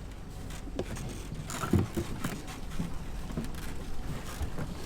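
Irregular knocks and thumps of kayaks being handled and set down on a boat, the loudest about two seconds in, over a steady low hum.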